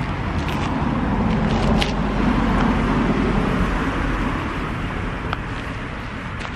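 A car driving past on the street, its engine and tyre noise swelling to a peak a couple of seconds in and then fading away.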